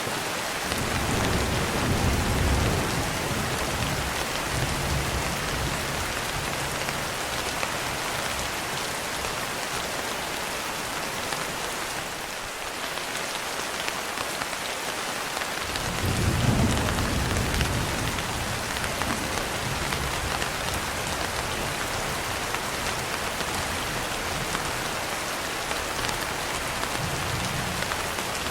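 Steady rain falling, a dense even hiss, with two low rolls of thunder: one rumbling in at the very start and fading over several seconds, another starting a little past halfway.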